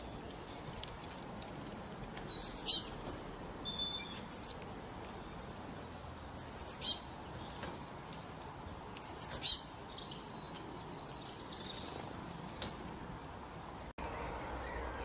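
Small songbird singing short phrases of quick, high, down-slurred notes. There are three loud bursts about three seconds apart, softer twittering between and after them, and a steady background hiss.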